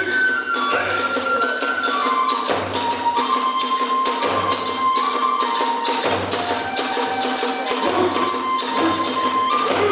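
Kagura festival music: a transverse flute plays a melody of held notes that step down and back up, over fast, steady percussion strokes and repeated low drum beats.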